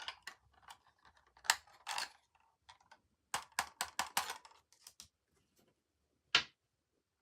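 Toy packaging being handled during unboxing: irregular runs of crackling clicks and rustles, with one sharp click a little after six seconds in.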